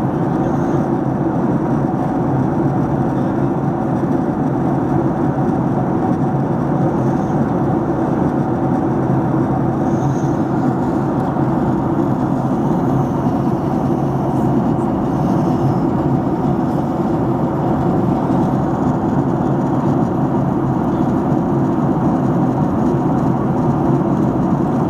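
Airliner cabin noise in flight: the steady rush of jet engines and airflow heard inside the cabin, even and unchanging throughout.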